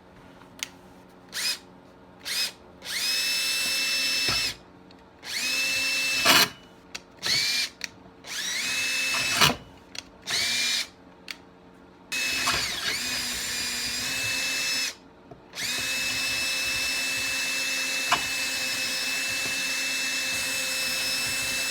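Electric drill run in bursts while boring through a chainsaw's stripped bar stud hole for a thread repair. There are a few quick trigger blips, then longer runs, the longest about six seconds near the end. Each time the motor whines up to speed and holds a steady pitch.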